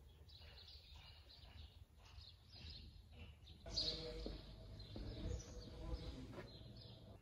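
Small birds chirping over faint background noise. About halfway through, a louder, lower sound joins in.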